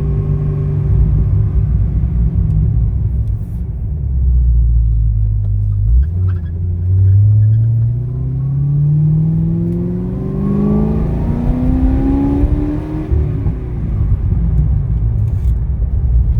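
2010 Corvette ZR1's supercharged 6.2-litre LS9 V8 under way. A steady low engine note, then from about six seconds in the engine pulls up through the revs in one long rising note for about seven seconds before easing off.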